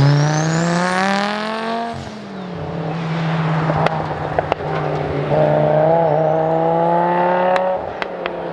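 Rally car engines accelerating hard: one climbs in pitch for about two seconds with a high whine rising alongside, and a second pulls up from about five seconds in. Under a steady low engine hum there are several sharp cracks from the exhaust.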